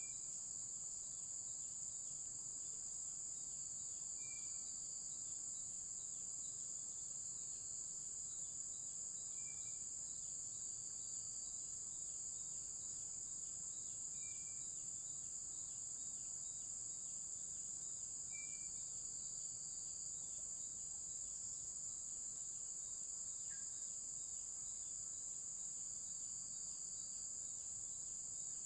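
A steady, high-pitched chorus of insects, typical of crickets, shrilling without a break. A short, separate call repeats about every four to five seconds over it.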